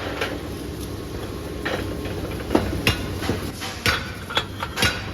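Irregular sharp metallic clinks and knocks, about six in all, from metal parts or tools being handled, over a steady low workshop hum.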